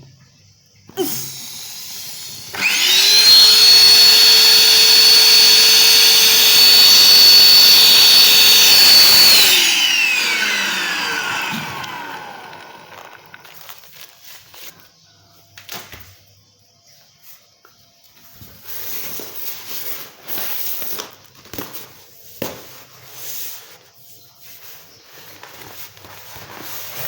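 Electric air pump deflating an inflatable: it switches on a couple of seconds in and runs steadily with a high whine for about seven seconds. Then it is switched off and its whine falls in pitch as the motor spins down. Faint knocks and rustles follow.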